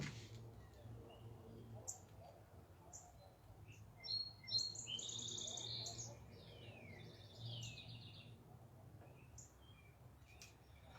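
Backyard songbirds singing: a few scattered high chirps, then about four seconds in a run of fast, trilled and sliding song phrases lasting several seconds, over a faint steady low hum.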